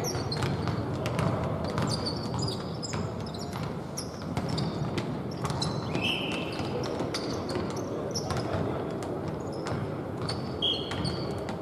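A basketball bouncing on a court in irregular knocks, with short high squeaks about six seconds in and again near the end.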